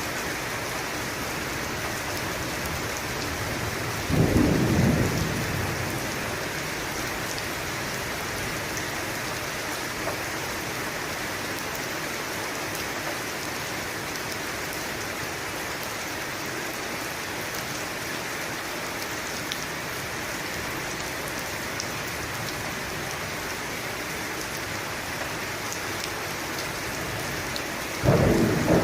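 Steady rain falling, with a short burst of thunder about four seconds in and another just at the end.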